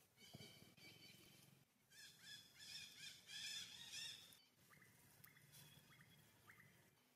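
Faint bird calls in forest: a run of high, warbling notes through the middle, then a few short quick chirps near the end.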